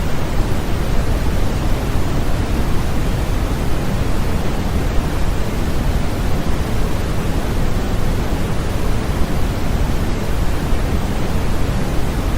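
Continuous white noise used as a baby sleep aid: a steady, even hiss, heavier in the low end than in the highs, with no changes.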